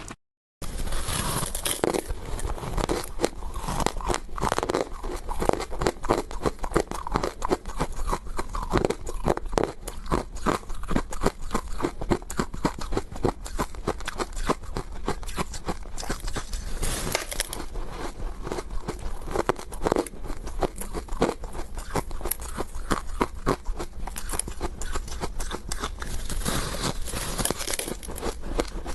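A person biting and chewing hard ice close to the microphone: dense, irregular crunching and crackling that goes on without a break after a short silence at the very start.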